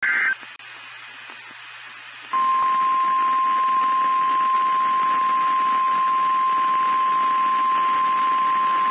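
NOAA Weather Radio receiver: a brief burst of data tones, about two seconds of faint radio hiss, then a loud steady 1050 Hz warning alarm tone over static starting about two seconds in. This tone signals that a warning is about to be broadcast.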